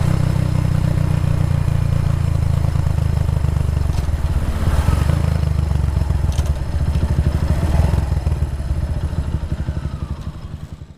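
Kawasaki W175's single-cylinder engine idling through an aftermarket racing exhaust, a low even pulsing beat, fading out near the end.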